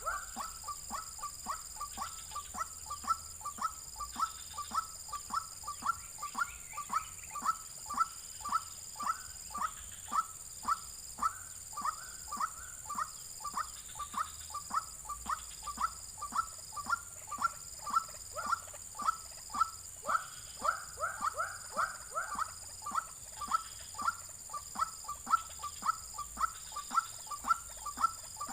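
White-breasted waterhen (ruak-ruak) calling over and over, a monotonous run of short falling notes at about two to three a second, a steady high hum beneath it.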